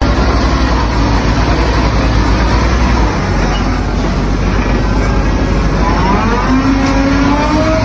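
Heavy truck engine running with a loud, steady low rumble; from about six seconds in its pitch rises as the engine revs up.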